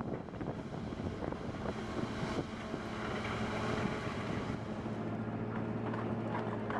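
Wood chipper's engine running steadily under load, a constant drone with some rough noise over it.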